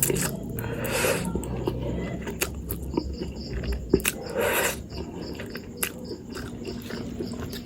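A person eating spicy instant noodles close to the microphone: chewing with many short wet mouth clicks, and two brief breathy bursts about a second in and about four and a half seconds in.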